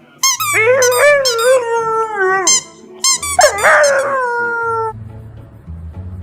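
A dog making long, whining howls: two drawn-out calls that waver and slide down in pitch, the second ending about two thirds of the way through.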